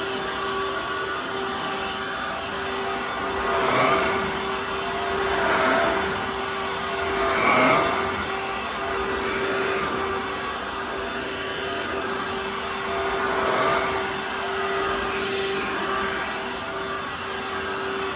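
Dirt Devil Versa cordless stick vacuum running: a steady motor whine under the rush of air, swelling louder several times and easing back.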